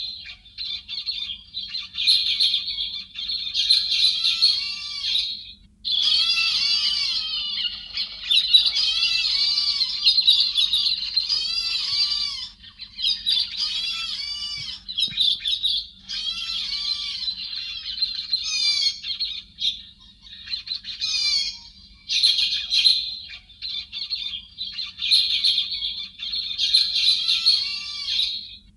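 Thrushes calling: fast, squeaky chattering notes, phrase after phrase with only brief pauses, as used on a trapping lure track.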